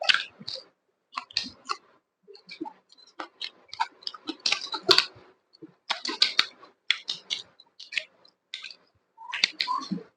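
A person chewing and smacking food close to the microphone, eating pork and chicken: a steady, irregular run of short smacking and clicking mouth sounds.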